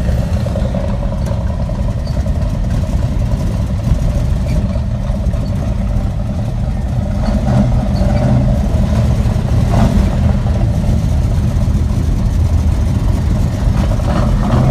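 Engine of a 1951 Chevrolet running steadily, heard from inside the car's cabin as it cruises, a low rumble that grows a little louder about halfway through.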